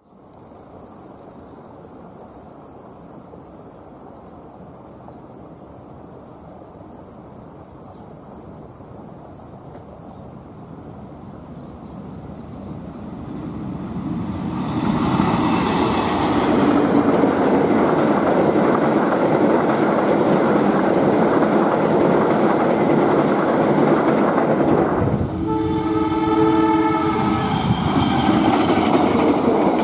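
Diesel-hauled passenger train approaching and passing close by: a rumble of locomotive engine and wheels on rail, building over the first fifteen seconds and then staying loud. About 25 seconds in, a diesel locomotive's horn sounds for around two seconds.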